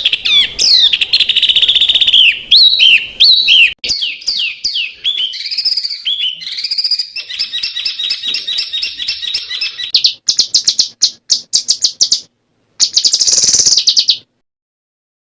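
Songbird song with a rich mix of quick sweeping whistles, chirps and fast trills, then rapid clicky notes and a buzzy trill. It cuts off suddenly about a second before the end.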